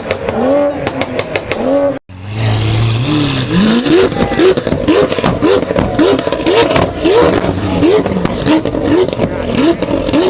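A car engine revved hard in quick repeated throttle blips, about two a second, its pitch rising sharply on each one. There is a brief dropout about two seconds in.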